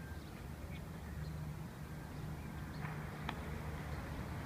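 A few faint, short bird chirps over a steady low rumble, with a single sharp click about three seconds in.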